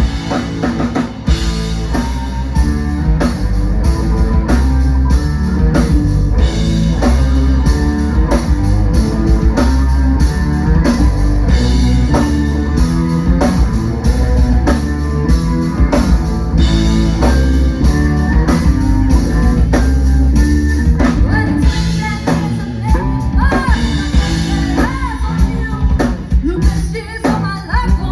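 Live rock band playing: a drum kit keeps a steady beat under electric guitar and bass, with a singer's voice.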